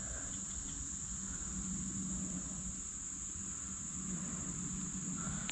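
Crickets chirping in a steady, unbroken high-pitched chorus, with a low rumble underneath.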